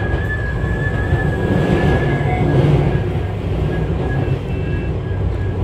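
Tobu 6050 series electric train running, heard inside the passenger car: a steady low rumble from the wheels and running gear, with a thin steady high tone over it.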